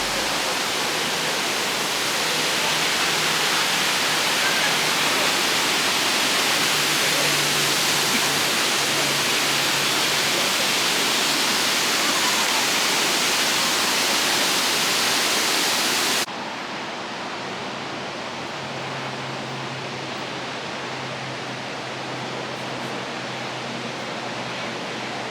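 Steady rushing roar of Multnomah Falls, a tall waterfall. About two-thirds of the way through it drops abruptly to a softer, duller level and carries on steady.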